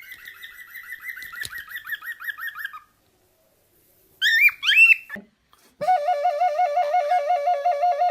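A parrot whistling: a fast trill of short falling notes, about seven a second. After a brief pause come two loud rising whistles, then a steady warbling tone that wobbles about five times a second.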